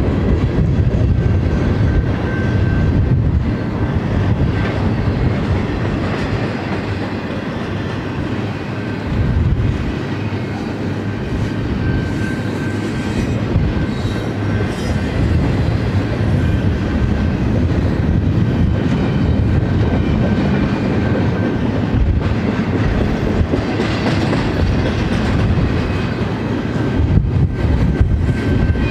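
Double-stack intermodal container train passing at close range: a steady noise of well cars' steel wheels rolling on the rails.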